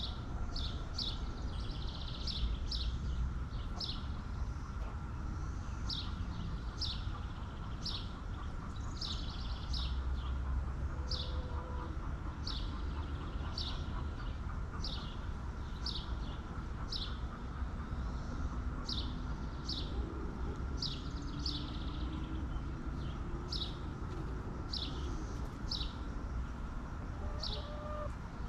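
A small bird chirping over and over, short high notes that drop in pitch, about one or two a second, over a steady low rumble.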